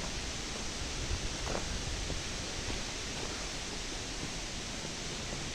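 Steady, even rush of river water flowing through a rocky gorge.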